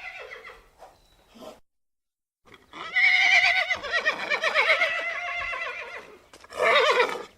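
Horse whinnying: one long, quavering neigh lasting about three and a half seconds, followed near the end by a second, shorter call.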